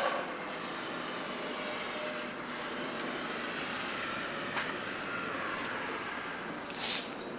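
Crickets trilling steadily and high-pitched over an even hiss. There is a faint click about four and a half seconds in and a brief rustle near the end.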